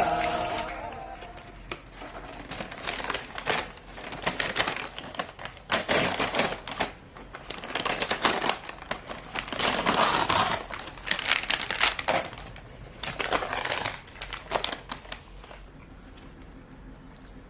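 Irregular crinkling and clicking of something being handled, in short busy spells that die away a couple of seconds before the end.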